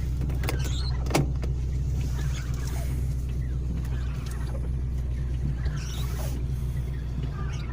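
Car engine idling steadily with a low hum, with one sharp click about a second in.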